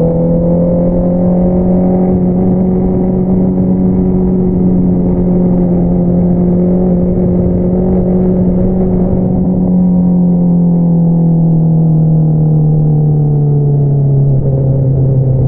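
Honda CBR650R inline-four running through an Akrapovič single-outlet exhaust under way, holding steady revs, then easing off so the exhaust note drops gradually in pitch over the last few seconds.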